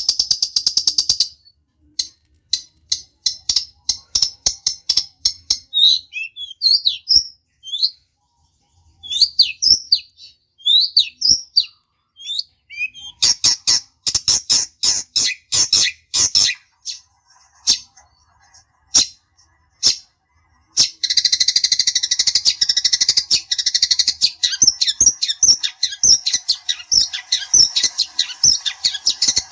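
Long-tailed shrike (cendet) song: rapid dry ticking and chattering with short rising chirps, in bursts broken by brief pauses, turning into a dense continuous chatter for the last third.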